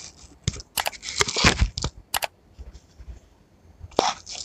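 Close-miked chewing of crisp watermelon chunks: irregular wet crunches, densest between about one and two seconds in, with another crunch near the end.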